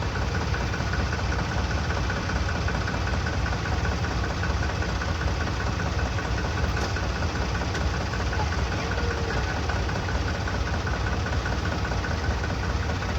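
Tractor diesel engine running steadily at a low, even speed, with a fast regular knock from the firing strokes.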